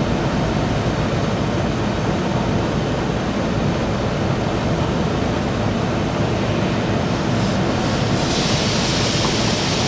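Automatic truck wash heard from inside the truck cab: a steady loud rush and rumble of water spray and wash machinery against the cab. About eight seconds in, a brighter, hissier spray joins in.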